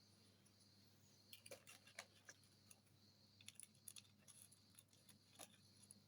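Near silence over a faint steady hum, broken by scattered faint clicks and light taps of small parts being handled as epoxy is worked onto a model airplane's rudder.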